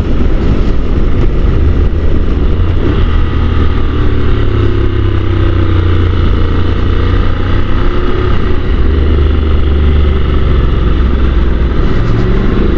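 Honda NC750 motorcycle engine running steadily on the move, its pitch easing gently down and back up in the middle.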